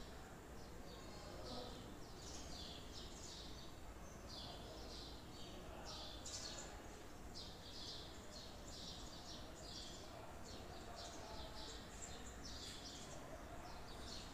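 Faint, repeated short chirps of small birds, several a second at irregular spacing, over a low steady background hum.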